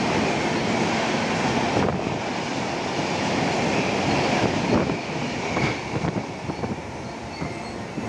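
Express train's coaches passing at speed close by, a dense rumble with wheels clattering over the rails, easing somewhat about five seconds in.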